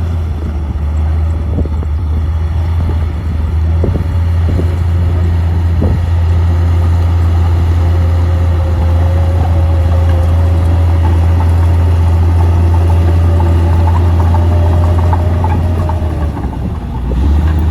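Komatsu D58P crawler bulldozer's diesel engine running steadily with a loud low drone, with a few short knocks in the first several seconds and a faint whine through the middle.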